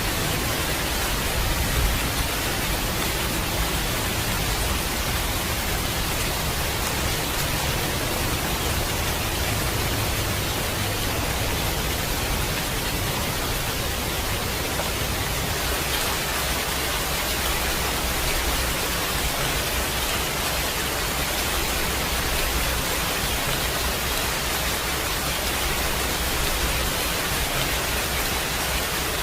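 Heavy rain falling steadily, an even hiss across all pitches.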